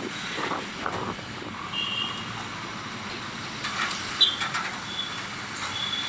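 Steady street and vehicle noise, with a few brief high-pitched beeps.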